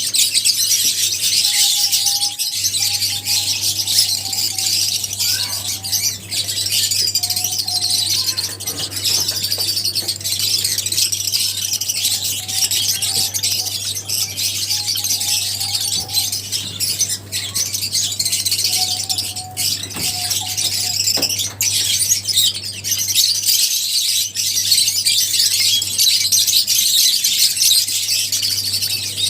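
A flock of lovebirds chattering and chirping continuously in a dense, high-pitched din, over a steady low hum.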